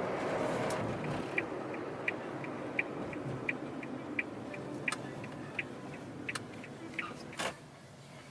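Vehicle indicator flasher clicking at an even pace, about three clicks a second alternating loud and soft, over an idling engine. A louder clack comes near the end as the engine sound drops away.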